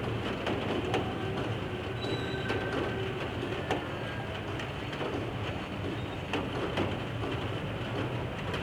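A train moving on the tracks: a steady rumble with scattered clicks and knocks.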